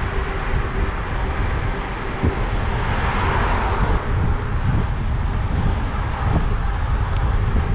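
Wind buffeting the microphone of a camera on a moving bicycle: a steady, loud, low rumble, with a swell of rushing noise about three seconds in.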